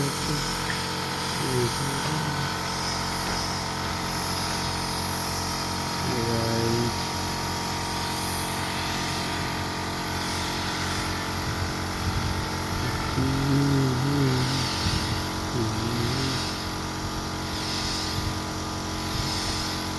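Air compressor running steadily under the hiss of a paint spray gun spraying oil paint. In the last few seconds the spray hiss swells and fades about once a second.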